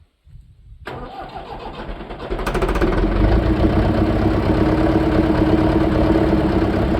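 Leyland tractor's diesel engine being cranked on starting fluid. It turns over from about a second in, then runs much louder and steadily from about two and a half seconds. It starts only on the ether, which the owner takes as the sign of a fuel delivery problem.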